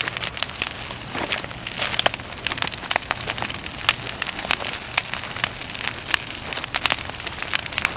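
Large bonfire of burning branches crackling and popping, with many sharp snaps scattered over a steady rush of flame.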